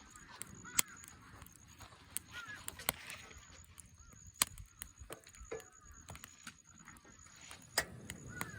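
Wood fire crackling in a fire pit: scattered sharp pops at uneven intervals, with a few short high squeaks among them.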